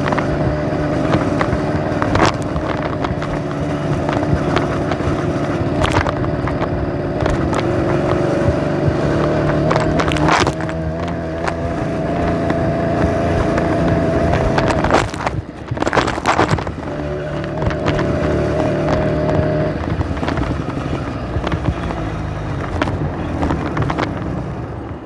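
Small engine of a hand-built motorized bicycle running steadily, its pitch drifting up and down a little with the throttle. It drops off briefly about fifteen seconds in, then picks up again, with a few sharp clacks along the way.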